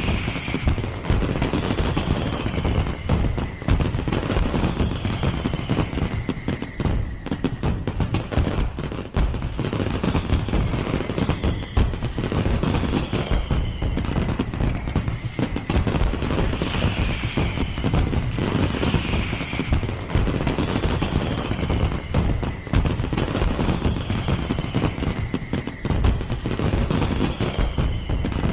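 Fireworks display going off in a dense, continuous barrage of rapid bangs and crackles, with no pause.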